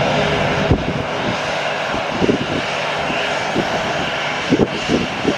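Airplane engines running, a loud steady rushing noise that eases slightly over the few seconds.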